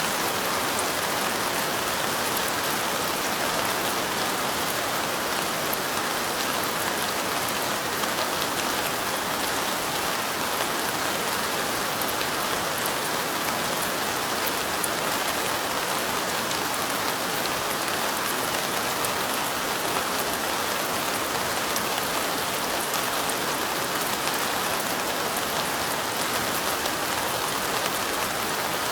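Steady light rain falling, a dense even patter of drops on a surface.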